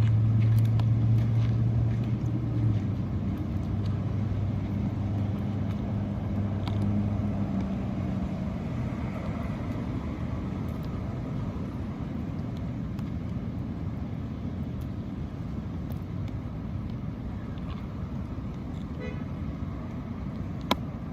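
A motor vehicle's low steady engine hum, fading away after about eight seconds, over a steady background of outdoor traffic-like noise.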